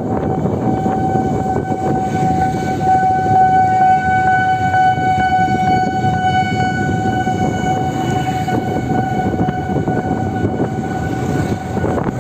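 Electric motorbike's motor giving a steady high whine at one constant pitch, over heavy wind rumble on the microphone.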